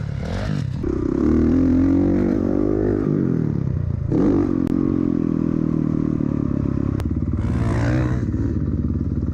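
Honda CRF450R dirt bike engine revving on the track. Its pitch climbs about a second in, drops near three seconds, climbs again about four seconds in, then runs steadier.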